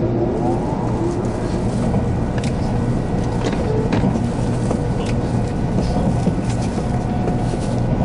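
Cabin running noise of a 300 series Shinkansen under way: a steady rumble with a low hum and scattered clicks from the track, and a rising motor whine fading out just after the start.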